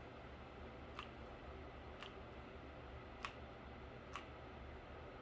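Faint, light clicks about once a second over a low steady hum.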